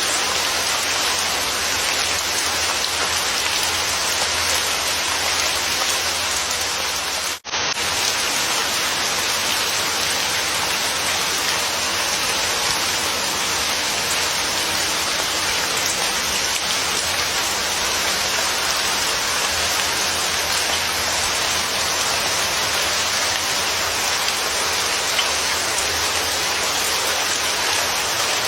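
Steady, even rain falling, a constant hiss of many drops with no thunder. It cuts out for an instant about seven and a half seconds in, then carries on unchanged.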